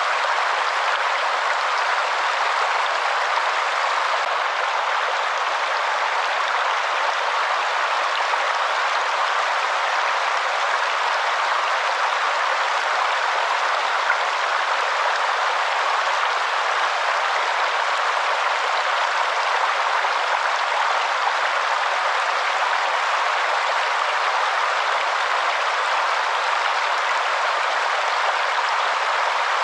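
Waterfall: a steady, even rush of falling water, with no deep rumble.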